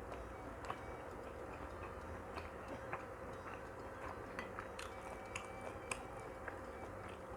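Close-miked chewing of shrimp gyoza: irregular soft clicks and smacks of the mouth, over a faint steady hum.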